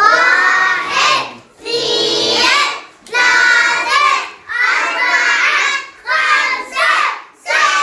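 A group of young children singing an Arabic counting (numbers) song together, in short phrases of about a second with brief breaks between them.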